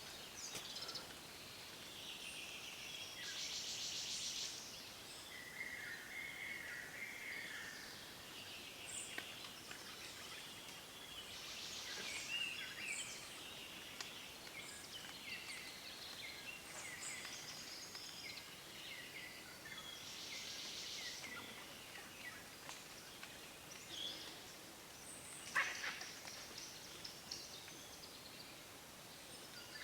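Birds chirping and calling over one another, with a brief buzzy trill about every eight seconds and one sharper, louder call near the end.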